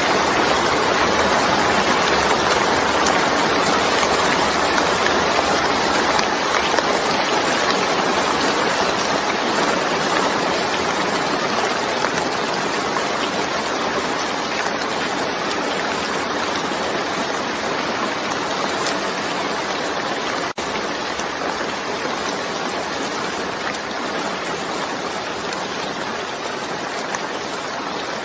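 Steady rain falling, a dense even hiss that eases off slightly over time, broken once by a split-second dropout about two-thirds of the way through.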